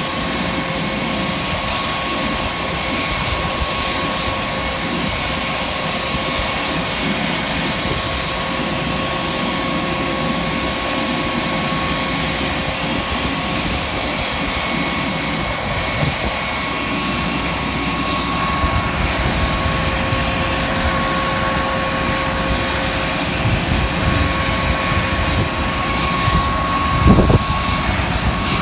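Panavia Tornado GR4 running on the ground during start-up, giving a steady, unchanging whine over a low rumble. Wind buffets the microphone, with a brief louder gust near the end.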